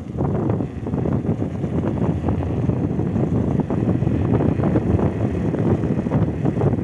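Vehicle driving on a paved road: a steady rumble of tyres and engine, with wind buffeting the microphone.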